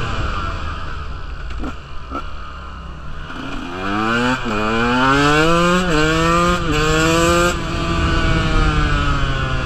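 KTM 125 two-stroke dirt bike engine heard from the rider's seat. It is off the throttle for the first few seconds, then accelerates with a rising pitch that drops sharply three times as it shifts up, before easing back near the end.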